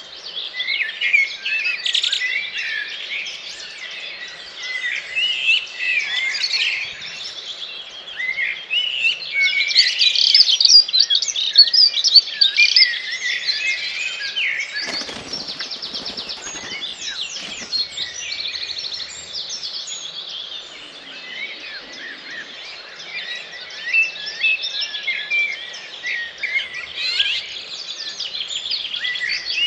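Dawn chorus: many songbirds singing at once, their songs overlapping in a dense mix of chirps, whistles and trills. A brief low rumble comes about halfway through.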